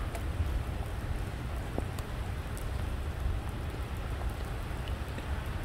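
Moderate rain falling steadily on a wet concrete parking deck: an even hiss with scattered sharp drop ticks and a low rumble underneath.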